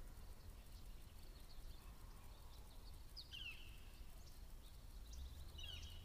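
Quiet riverside ambience with a faint low rumble. A small bird gives short, high, falling chirps about three seconds in and again near the end.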